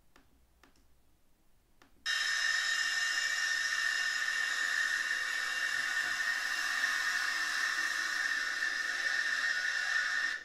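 A few faint clicks, then about two seconds in a jet engine's steady hiss and high whine starts abruptly. It holds level and cuts off suddenly at the end.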